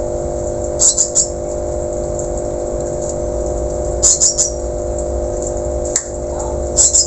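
Whistling thrush giving short, sharp, high-pitched calls in quick clusters of three or four notes, three times, over a steady low hum.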